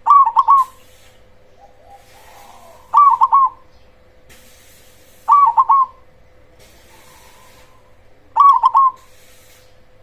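A zebra dove (perkutut, the black cemani variety) giving its cooing song: four short phrases of three or four quick, clipped coos, one about every three seconds. Fainter coos sound in the gaps.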